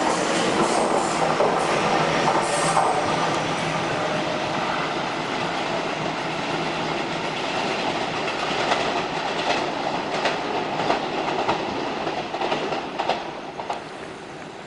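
Taiwan Railways train running past on the track, a steady rumbling rush with wheels clicking over rail joints, fading as it moves away near the end.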